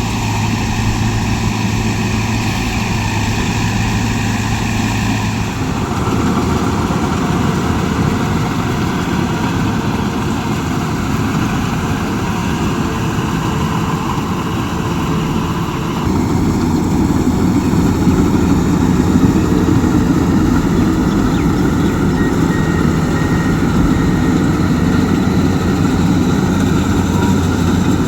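Diesel engine of farm machinery running steadily, with the engine note changing abruptly twice, about five seconds in and about sixteen seconds in, louder after the second change.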